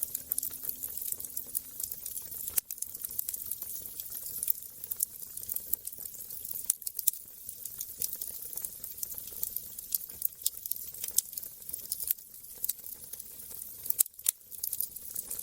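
Wood fire crackling in a fireplace: a steady hiss with frequent small pops and snaps. Sharper pops come about two and a half seconds in and again near the end.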